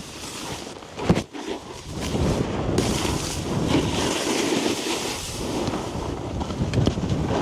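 A sharp thump about a second in, then a snowboard sliding and scraping over packed snow, getting louder and harsher after about two seconds, with wind buffeting the microphone.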